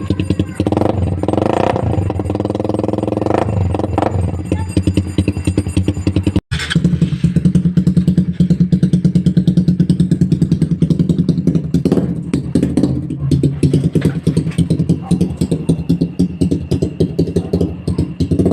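Exhaust of a fuel-injected Suzuki Raider 150 motorcycle through an aftermarket NLK tube-type pipe, running and revved, its firing pulses loud and steady. The sound breaks off for an instant about six and a half seconds in and then continues.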